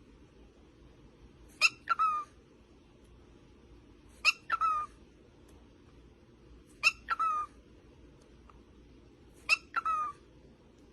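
A pet parrot calling four times, about every two and a half seconds. Each call is a sharp note followed by two falling notes.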